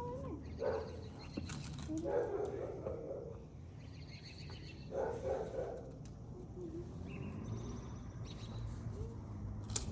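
A dog giving a few short whines and yips, over a low steady hum.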